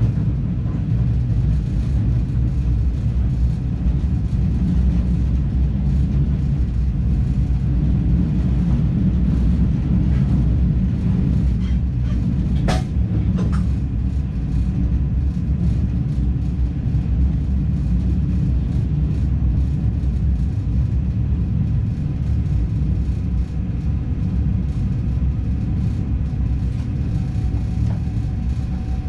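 NS DDZ double-deck electric train running, heard from the cab: a steady low rumble, with a sharp clack about twelve seconds in and a fainter one just after.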